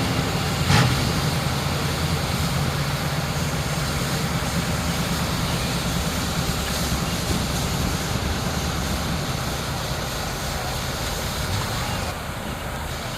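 A truck engine running steadily at low revs under an even rushing noise, with a single sharp knock about a second in.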